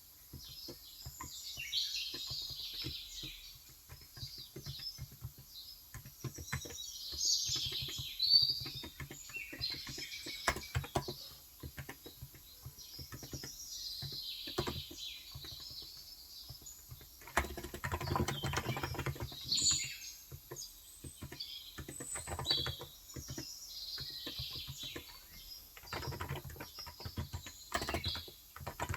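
Typing on a COX Endeavor electro-capacitive (35 g) tenkeyless keyboard, soft keystrokes in uneven runs, densest about two-thirds through and again near the end. Birds chirp and twitter throughout.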